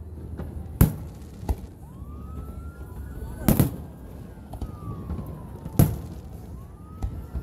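Aerial firework shells bursting: five sharp bangs, three of them loud, spaced a second or two apart. Between them a siren wails, slowly rising and falling in pitch.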